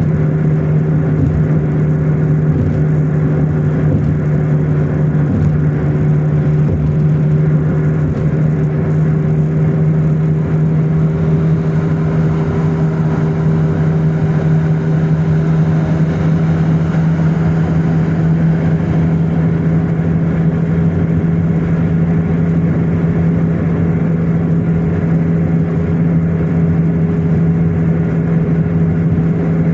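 A car driving along: a steady engine drone with road noise, its pitch creeping up slightly over the stretch as the car gathers a little speed.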